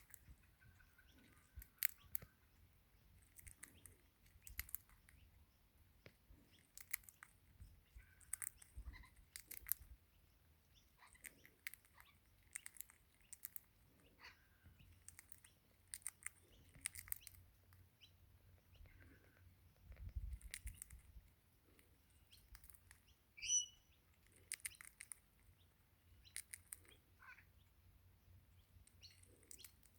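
Crimson rosella cracking sunflower seeds in its beak: a faint, irregular string of sharp clicks, with one short chirp about two-thirds of the way through.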